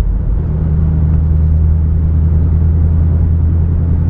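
Pontiac Firebird's engine droning steadily at cruise, heard from inside the car along with road noise.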